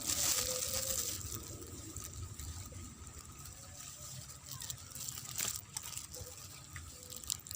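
Steady rain falling, louder in the first second, with a few sharp clicks later on.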